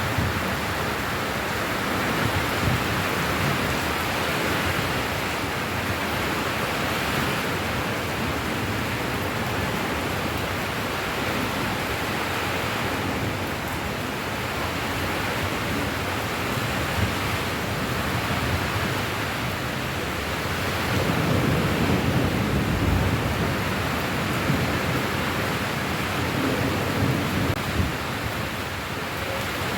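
Steady, dense rainfall, an even hiss without a break. About two-thirds of the way through, a low rumble swells for a few seconds and then fades.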